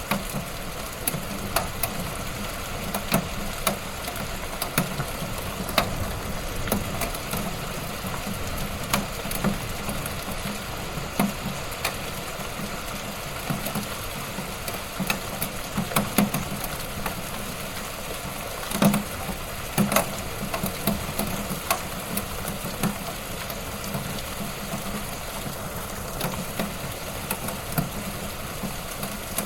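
Wood fire in a fireplace crackling steadily, with frequent irregular sharp pops; the loudest pops come about two-thirds of the way through.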